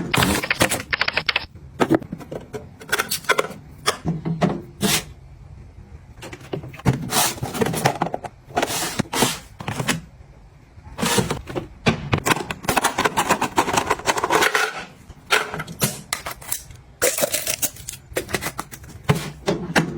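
Items being picked up, handled and set down during organizing: a dense, irregular run of clicks, taps and knocks with brief rustling between them.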